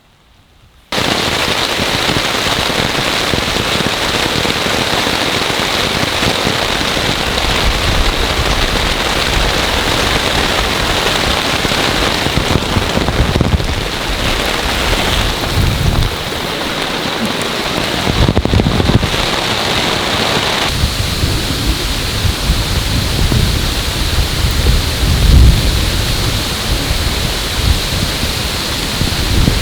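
Heavy storm rain falling steadily, beginning abruptly about a second in, with low rumbles coming and going several times.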